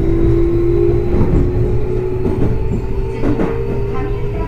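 Keio 8000 series train running, heard from inside the car: the Hitachi IGBT-VVVF inverter and traction-motor whine climbs slowly in pitch as the train gathers speed, over a steady rumble. Wheels knock over rail joints several times.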